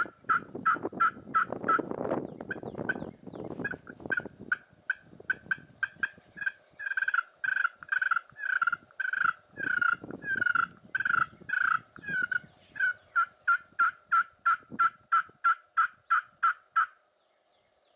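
Wild turkeys yelping: a long run of short, evenly spaced yelps, about three a second, stopping about a second before the end. A rustling noise is heard under the first few seconds.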